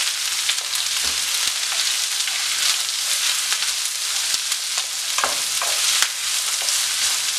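Freshly added sliced onions and green chillies sizzling in hot oil in a nonstick pan, stirred with a wooden spatula: a steady sizzle with scraping and a few knocks of the spatula against the pan.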